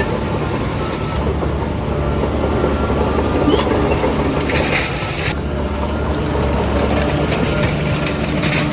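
Diesel engine of a Shantui DH17C3 crawler bulldozer running steadily under load, with the rattle of its steel tracks. A brief hiss comes about halfway through and again near the end.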